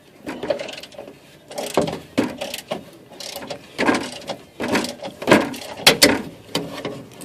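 Craftsman flex-head ratchet with a 10 mm socket clicking in short, irregular bursts of strokes, backing out fasteners that hold a plastic underbody panel.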